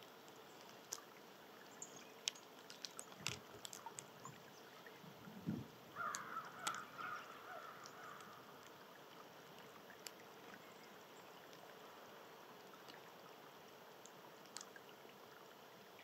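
A bird gives a harsh, rough call lasting a second or two about six seconds in, after a scattering of sharp clicks and taps.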